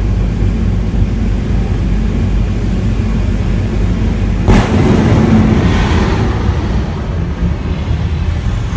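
Jet truck's jet engine running with a steady low rumble, then a sudden loud blast about halfway through that fades over a couple of seconds.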